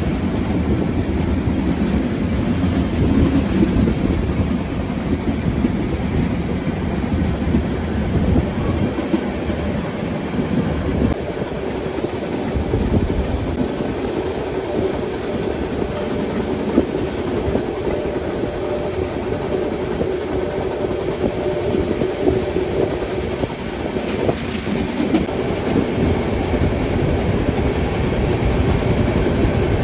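Harz narrow-gauge steam train running along the line, a steady rumble of wheels on the rails, with a faint steady hum joining about halfway through.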